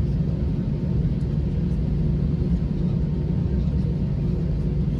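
Steady low rumble inside an Airbus A321 on the ground, with faint steady hums over it.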